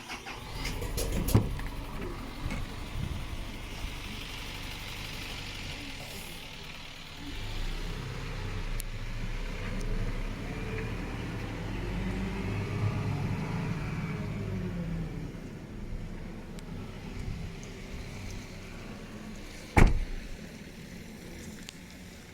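A motor vehicle's engine running, its pitch rising and falling once through the middle, with a sharp knock early on and a louder one near the end.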